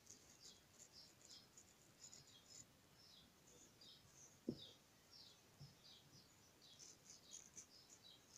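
Faint chirping of small birds, many quick high chirps falling in pitch. A single low thump comes about four and a half seconds in.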